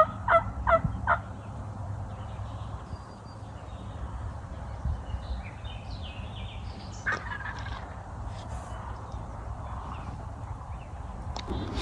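Turkey yelping: a quick run of about four short, evenly spaced notes right at the start, then a single fainter call about seven seconds in.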